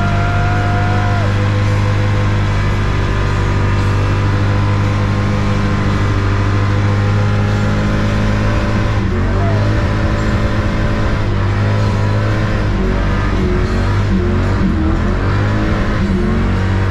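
Fox-body Ford Mustang's engine held at high revs in a long burnout, the rear tyres spinning in place, heard from inside the cabin. The engine note holds steady, wavering in pitch in the second half.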